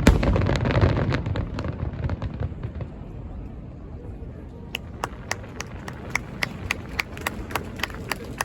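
Aerial fireworks finale: a dense volley of bangs with a low rumble that thins out and fades over the first few seconds. From about halfway through, a steady run of sharp clicks follows at about three a second.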